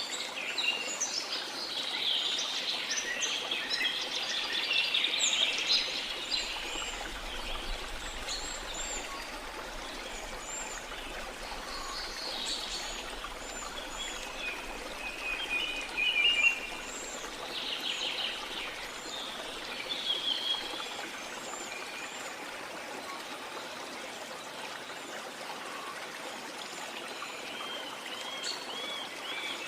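Several birds chirping and singing over a steady rush of flowing water. The calls come thickest at the start and recur throughout.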